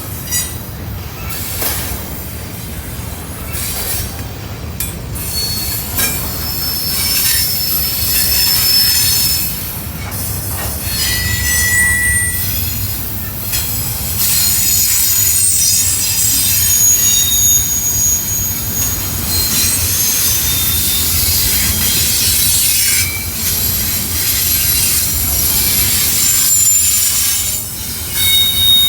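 Norfolk Southern intermodal freight cars rolling past, the wheels squealing in shifting high-pitched whines over a steady low rumble.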